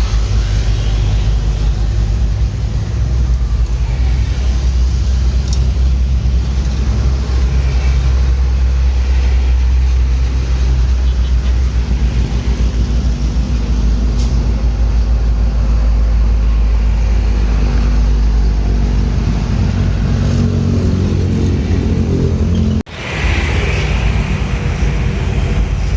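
Steady low rumble of a road vehicle's engine and road noise while travelling in traffic, broken once by a sudden brief dropout about 23 seconds in before the same rumble resumes.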